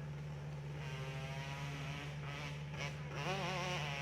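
Hill-climb motorcycle engine revving hard as the bike launches and climbs, its pitch rising, breaking up briefly about two and a half seconds in, then rising again louder and wavering. A steady low hum runs under it.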